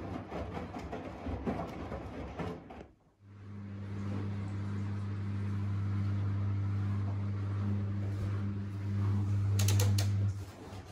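Washing machine running: an uneven, clattering noise for the first few seconds, then a steady low hum that starts about three seconds in and stops shortly before the end, with a few clicks near its close.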